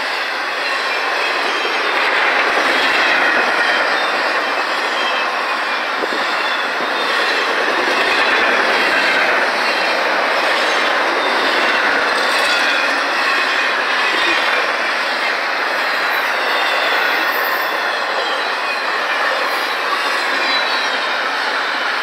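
Double-stack intermodal freight cars rolling past: a steady, loud noise of steel wheels running on the rails, with a faint high squeal from the wheels.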